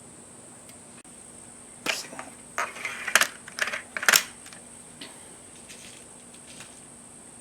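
Handling noise: a cluster of sharp clicks and light knocks, lasting about two seconds and starting a little after the start.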